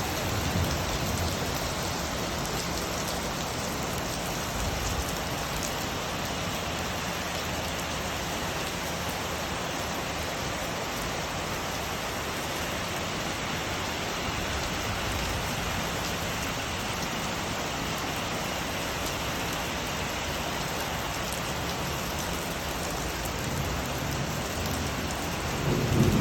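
Steady rain falling, with a low rumble of thunder starting near the end.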